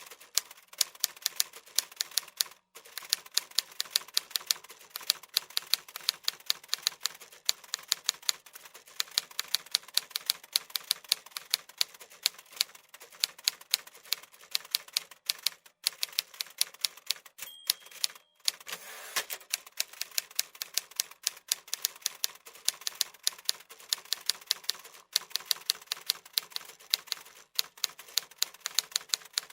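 Typewriter keys being struck in quick, irregular runs of clicks, with a few brief pauses. About two-thirds of the way through there is a short ringing tone, followed by a slight pause.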